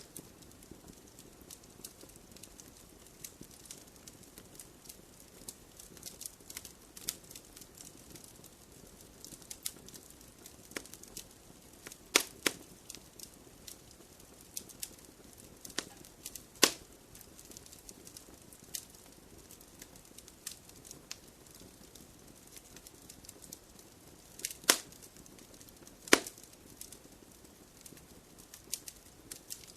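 Wood fire crackling and popping in a fireplace: a low steady hiss under irregular sharp snaps, with a few louder pops about 12, 16 and 26 seconds in.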